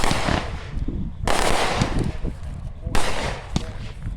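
Two Monkey Wrench consumer firework cakes firing: three sharp bangs, at the start, about a second in and about three seconds in, each trailing off over about a second.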